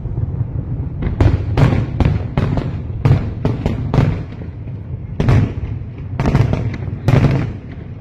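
Aerial fireworks going off in quick succession: about a dozen sharp bangs and booms, sometimes two a second, over a continuous low rumble of shell bursts.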